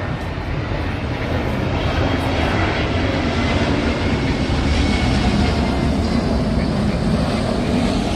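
Jet airliner's engines passing, a steady jet noise that swells to its loudest about five seconds in and then eases slightly.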